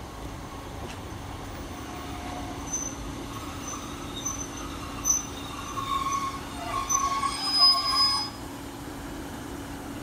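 Class 150 diesel multiple unit arriving and slowing at a station platform, its diesel engine giving a steady drone. High squeals from the wheels and brakes come and go from about five seconds in, loudest just before they stop near eight seconds.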